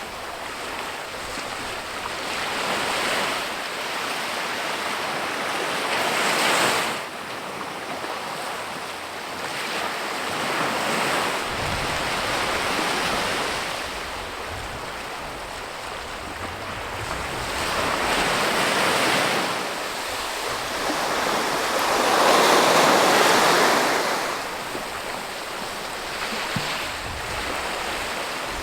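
Rushing outdoor noise that swells and fades in surges every few seconds.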